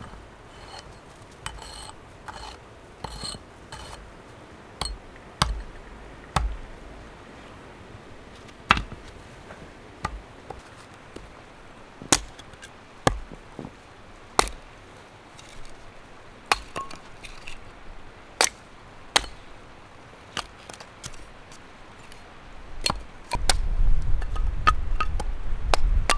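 A tool striking wood: separate sharp knocks at irregular intervals, often a second or so apart. About 23 s in, a low wind rumble buffets the microphone.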